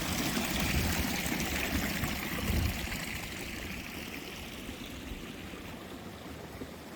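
Running water, a steady rushing trickle that fades gradually over several seconds.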